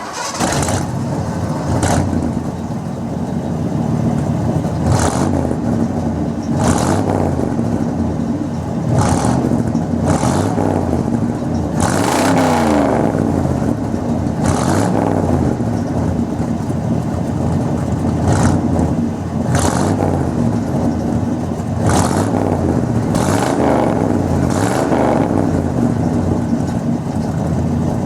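1978 Ford pickup engine revved over and over through a holed exhaust, a loud leaking pipe and muffler, with about a dozen surges in pitch and loudness between steadier running.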